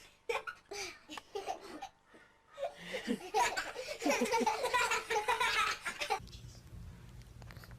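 People laughing hard, after a few short vocal sounds, cutting off suddenly about six seconds in.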